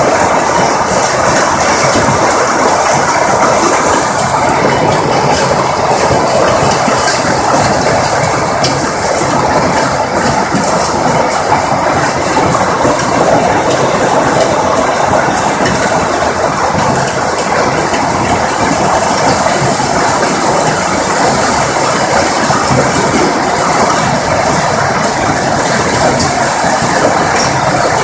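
Hailstones and heavy rain pelting down, a loud continuous clatter of countless small impacts.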